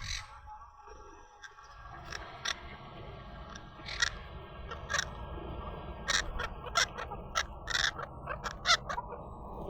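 Parrots squawking in a string of short, loud screeches that come faster in the second half, over a steady low background noise that begins about two seconds in.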